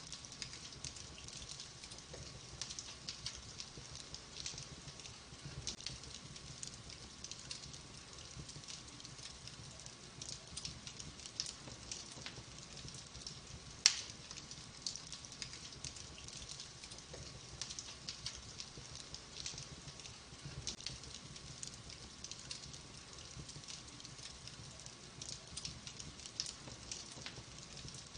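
Logs burning in a wood fireplace, crackling: frequent small snaps over a soft hiss, with one sharper pop about halfway through.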